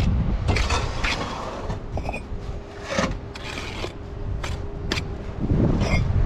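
Bricklayer's steel trowel scraping and spreading mortar in a run of short strokes. Wind rumbles on the microphone, strongest at the start and near the end.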